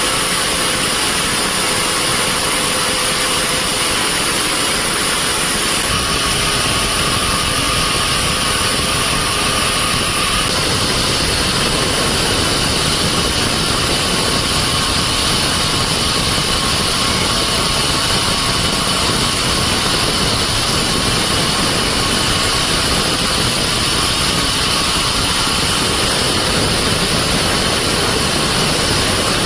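Band sawmill running with a steady high whine and a continuous mechanical din; a deeper rumble comes in about six seconds in and holds.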